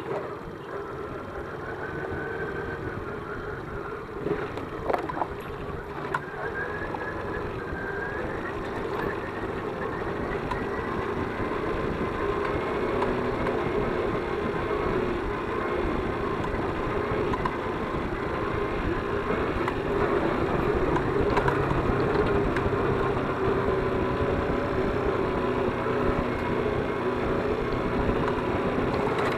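ZiD 50-01 moped engine running under way, its note rising about a quarter of the way in and growing gradually louder. A few sharp knocks come early on, likely from the moped going over bumps.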